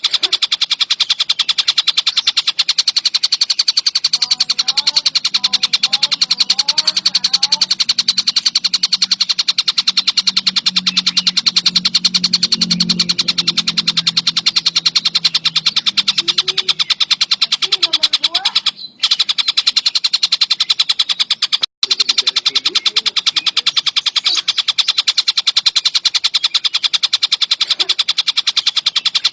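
Collared kingfisher calling in a continuous rattle of rapid, harsh repeated notes. The sound cuts out briefly twice, about two-thirds of the way through.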